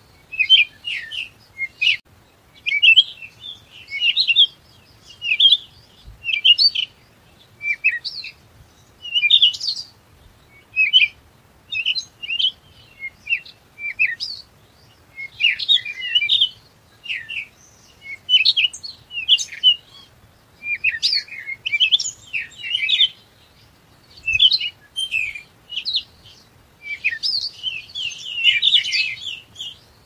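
Small songbirds chirping: many short, quick calls in irregular clusters, several birds overlapping, with brief pauses between bursts.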